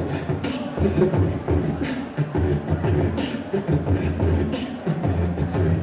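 Beatboxing: mouth-made bass kicks and hi-hat clicks keeping a steady hip-hop beat between rap verses.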